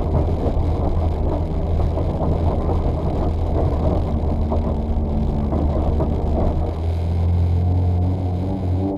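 Suzuki Swift GTi rally car's 1.3-litre twin-cam four-cylinder engine running at a fairly steady pace, with a deep, steady drone.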